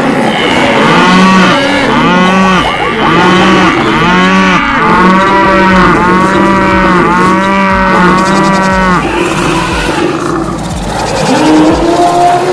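Animal calls, several overlapping: a run of rising-and-falling calls, about one a second, that dies away about three quarters of the way through before new calls start near the end.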